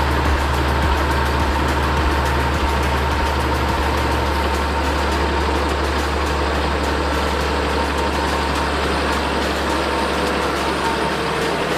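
Heavy tractor engine idling steadily with a deep, even rumble.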